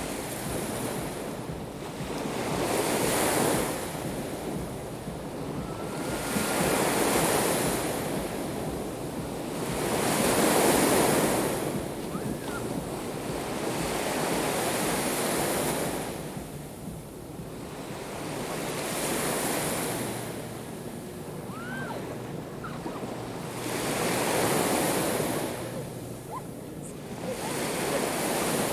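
Black Sea waves breaking on the shore, one after another, each swelling and fading away about every four seconds.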